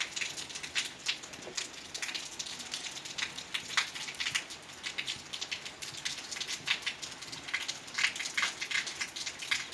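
Rain pattering on a roof, a steady light hiss broken by many irregular sharp drips and ticks.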